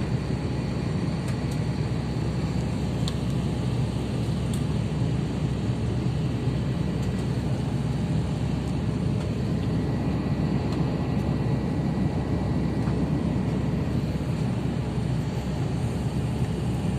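Steady cabin noise of an Airbus A350-900 airliner in flight: an even, low rush of airflow and engine noise heard from inside the passenger cabin.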